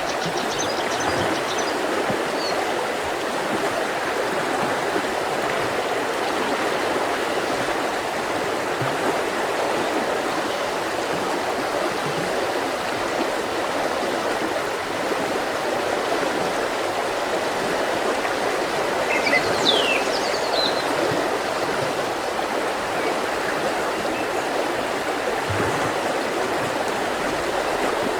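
Mountain river flowing over rocks, a steady rushing of water. About two-thirds of the way through, a bird gives a few short high chirps.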